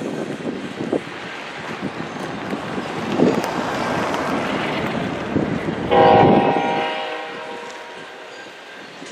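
Double-stack intermodal container cars of a freight train rolling past on the rails: a steady rumble with occasional wheel knocks. About six seconds in, a brief chord-like pitched tone sounds over the rumble and fades within about a second.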